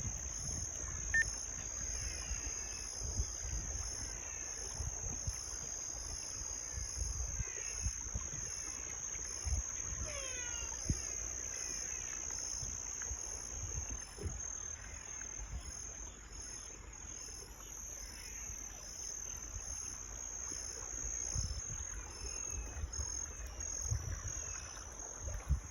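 Rural outdoor ambience: a steady high insect drone runs throughout, with many short falling chirps and low rumbling thumps on the microphone.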